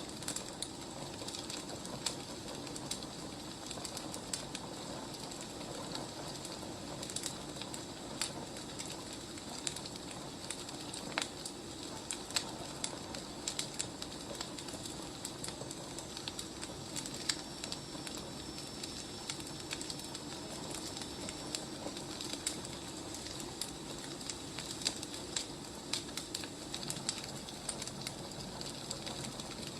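Wood fire crackling, with irregular sharp pops and snaps over a steady low hiss. A faint thin high whistle sounds for several seconds in the middle.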